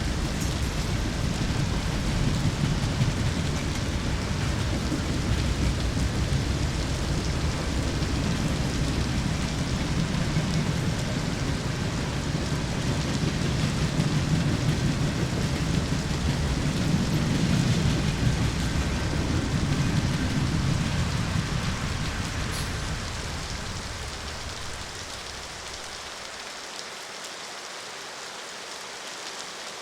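Steady rain falling, with a long low rumble underneath that fades away after about twenty-two seconds, leaving only the rain.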